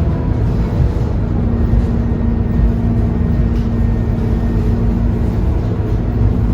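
Scania K230UB bus's five-cylinder diesel engine running steadily under way, a low drone with a held engine note over road rumble.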